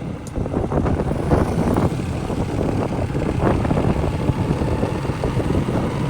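Motorcycle engine running while riding along the road, with wind rushing over the microphone.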